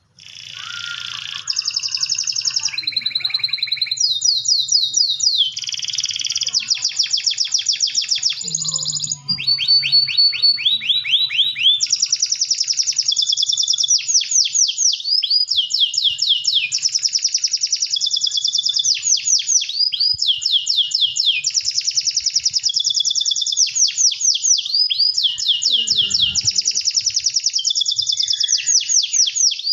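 Domestic canary singing vigorously and without pause, in long rolls of rapidly repeated notes and fast falling sweeps.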